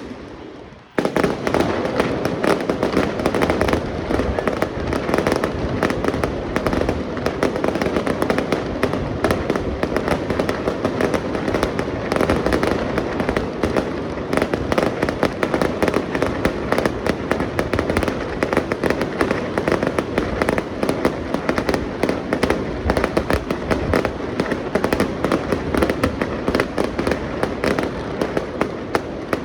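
Fireworks going off in a dense, continuous barrage of rapid bangs and crackles, starting abruptly about a second in.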